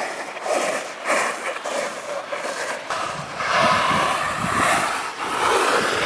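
Rushing noise of an alpine snowboard sliding down a slope, with wind buffeting the microphone and the level surging up and down as the rider carves.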